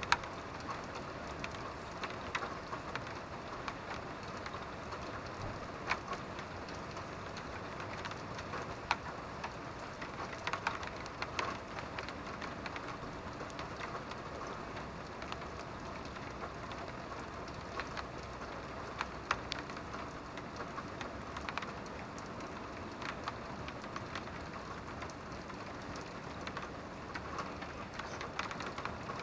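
Steady rain with scattered sharp drips of drops striking a surface.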